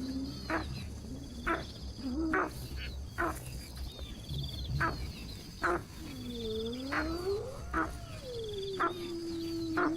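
Animal calls: sharp chips repeated about once a second with short high trills between them, and a long low wavering call that dips and rises about two thirds of the way through.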